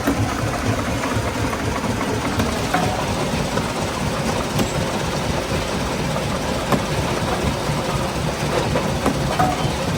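Stone-crushing plant machinery running steadily: a dense, continuous rumble with a few scattered sharp knocks.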